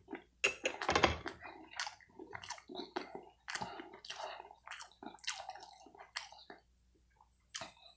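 A person chewing food close to the microphone: a run of irregular wet smacks and clicks that stops about six and a half seconds in, with one more click near the end.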